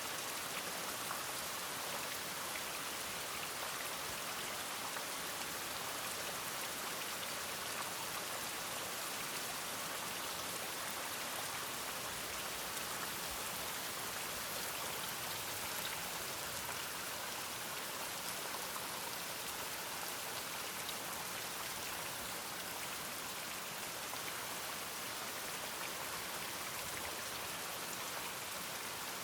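Steady rain falling, an even hiss with no thunder or barking in it.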